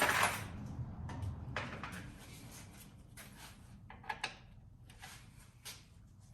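Hand tools being handled: a scrape at the start, then scattered light clicks and rattles.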